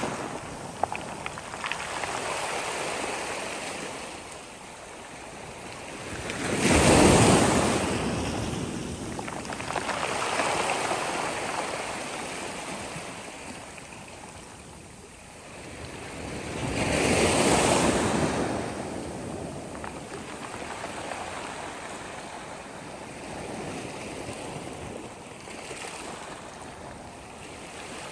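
Sea waves breaking and washing up the shore, two larger breakers swelling and fading about ten seconds apart over a steady hiss of surf.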